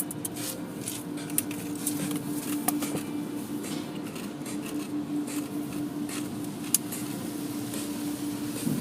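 Car wash equipment running: a steady mechanical hum with scattered clicks and taps, the sharpest ones about a second and a half in, near three seconds and near seven seconds.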